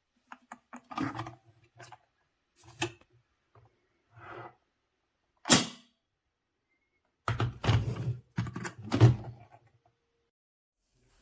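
A series of separate knocks and short clatters of hard objects being handled, with pauses between them; the loudest come in a quick run in the second half.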